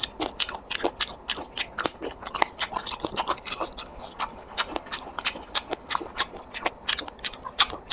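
Close-miked ASMR mukbang eating: a person chewing and biting food, a quick irregular run of sharp smacks and crunches, several a second.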